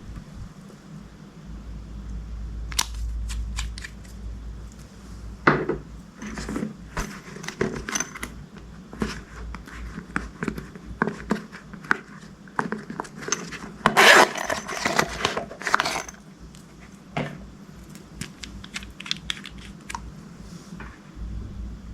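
Crunchy slime being worked by hand: a scatter of sharp clicks and crackles that builds to its loudest, densest crackling about fourteen seconds in, then thins out.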